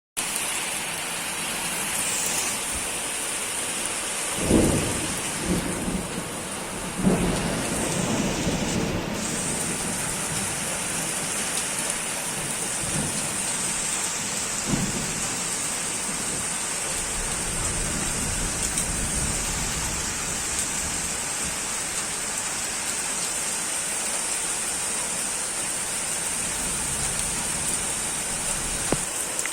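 Steady rain falling, with rolls of thunder rumbling under it; the strongest rolls come about four to seven seconds in, and a weaker one about halfway through.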